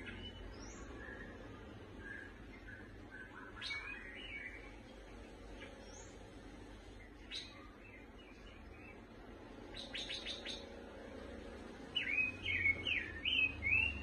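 Caged pancawarna bird chirping in short, scattered calls, with a quick rattling series about ten seconds in and a louder run of chirps in the last two seconds.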